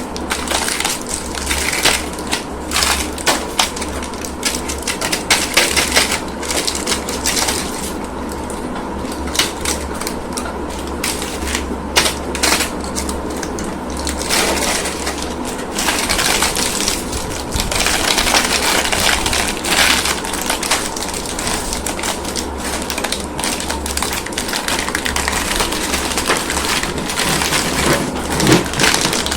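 Plastic candy packaging and wrappers crinkling and rustling as they are handled, a dense irregular run of sharp crackles. A steady low hum runs underneath.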